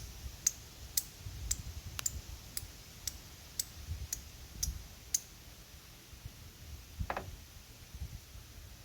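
Flint and steel: a steel striker struck against a shard of chert, about eleven sharp clicks roughly twice a second that stop about five seconds in, throwing sparks onto char cloth. A short scuffing sound follows a couple of seconds later.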